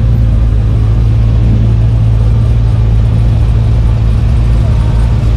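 Car engine running steadily, a loud, even low rumble that neither rises nor falls.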